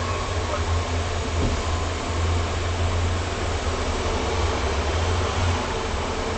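Steady low rumble and hiss inside a police car.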